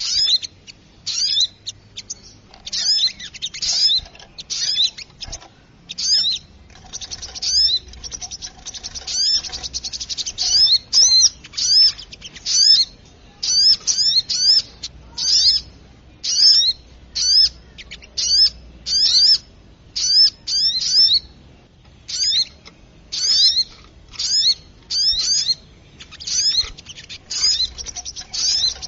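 Little spiderhunter (sogok ontong) calling noisily: a rapid series of sharp, high chirps in quick clusters, thickest around the middle, an agitated call used to lure small birds.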